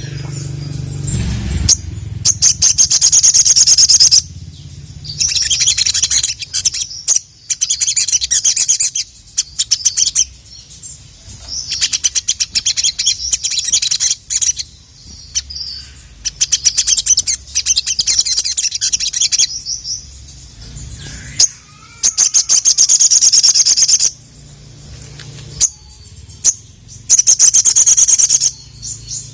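Little spiderhunter (sogon, sogok ontong) singing: bursts of rapid, high-pitched chattering trills, each one to three seconds long, repeated with short pauses between.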